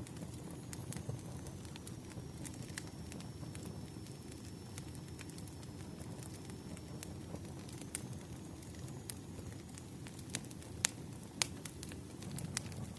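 Wood fire burning with a steady low rush and irregular crackles and pops, two sharper pops coming close together near the end.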